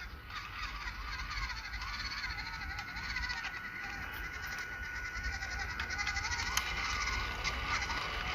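Animal calls wavering up and down in pitch, many of them overlapping, over a steady high whine.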